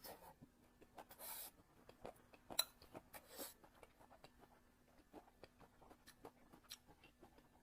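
Close-miked eating: soft chewing and mouth sounds with many small clicks and a few short bursts, the sharpest click about two and a half seconds in.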